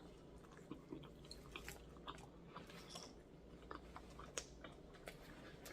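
Faint chewing of a fried chicken sandwich, with scattered small mouth clicks and crunches.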